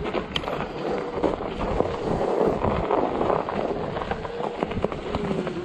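Ecotric 48 V fat-tire electric bike climbing on a snow- and ice-covered road: the tires crunch with many small crackling clicks, wind rushes on the microphone, and a faint wavering whine runs underneath.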